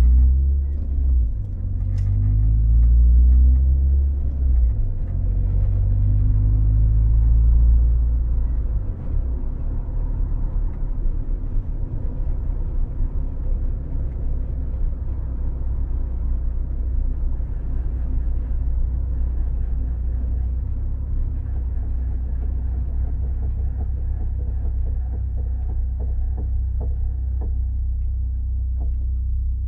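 Toyota AE92 Corolla running, its engine note rising and falling for the first eight seconds and then settling into a steady low rumble, with a few faint clicks near the end. It is being checked for an abnormal noise.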